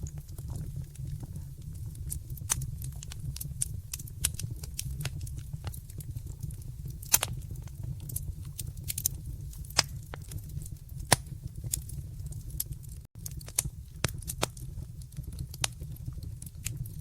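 Wood fire burning in a fireplace: irregular sharp crackles and pops, a few louder than the rest, over a steady low rumble of the flames. The sound cuts out for an instant about thirteen seconds in.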